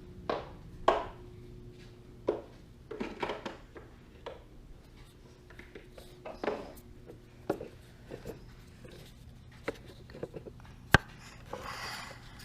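Irregular light knocks, clicks and clatters of small hard objects being handled, with one sharp knock about eleven seconds in.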